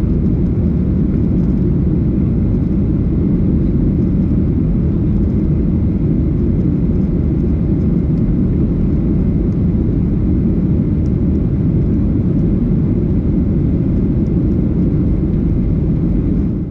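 Steady low rumble of a Boeing 737-800's CFM56 jet engines and rushing air, heard from inside the passenger cabin. It falls away right at the end.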